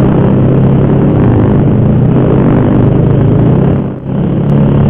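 Sport motorcycle engine running steadily at low road speed, heard close up from the rider's seat, with a brief drop in sound about four seconds in.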